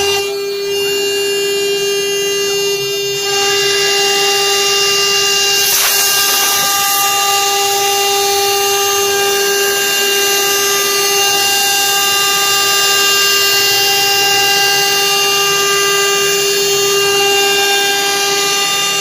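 Bogong CNC router spindle running with a steady high whine while it engraves wood, with a louder hiss of cutting that swells about three seconds in and eases a few seconds later.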